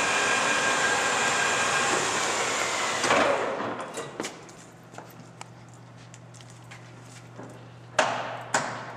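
Whacheon HL-460 geared-head engine lathe running at high spindle speed with a steady gear whine. About three seconds in it brakes to a stop within about a second, leaving a low electrical hum. Then come several sharp metallic clunks, the loudest near the end.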